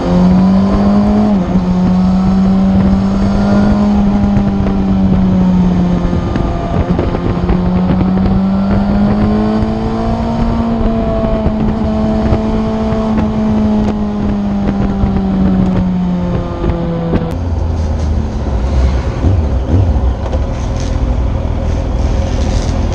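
Motorcycle engine and exhaust under way at steady riding revs, the note rising and falling with throttle and dipping briefly at gear changes, over wind rush. About two-thirds of the way in the note changes abruptly to a lower, rougher engine sound.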